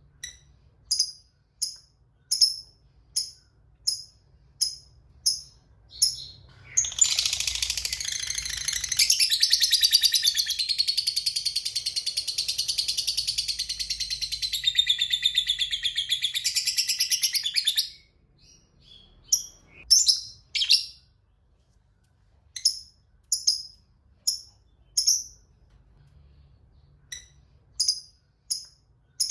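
Lovebird giving short sharp chirps about twice a second, then breaking into one long continuous chattering trill, the prized 'ngekek panjang', that runs about eleven seconds before it returns to single chirps.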